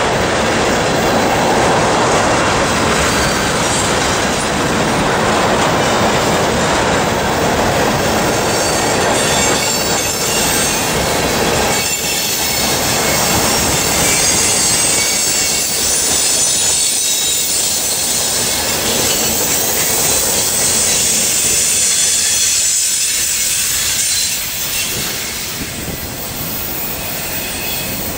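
Rolling noise of a freight train of tank cars passing close by, steel wheels on rail. A high wheel squeal comes in around the middle. The sound eases off near the end as the last cars go by.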